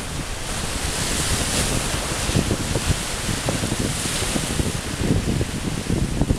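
Rough Mediterranean sea: waves breaking and washing, swelling twice, with wind buffeting the microphone.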